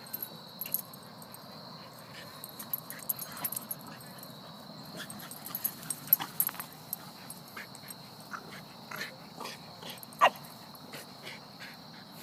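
Dogs yipping and barking in short, scattered calls, with one sharp, louder yelp about ten seconds in.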